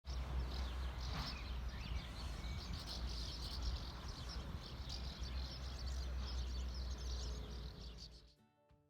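Outdoor ambience: birds chirping over a steady low rumble, fading out near the end.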